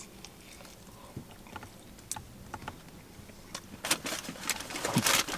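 A person chewing a mouthful of crispy fried chicken sandwich: soft scattered crunches and mouth clicks, growing busier and louder in the last second and a half.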